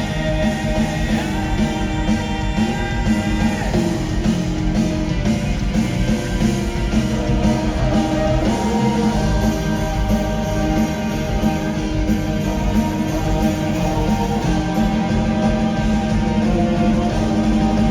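A live rock band plays a loud, guitar-led instrumental passage between sung lines, over a steady drum and bass beat.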